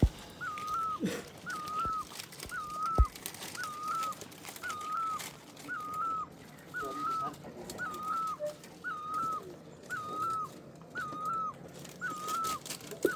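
A bird repeating one short whistled note very evenly, about twice a second, on and on. A few faint knocks, the loudest about three seconds in.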